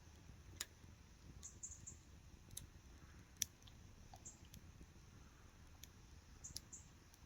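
Near silence broken by faint, scattered sharp clicks and ticks, the loudest about three and a half seconds in, with a few brief high chirps between them.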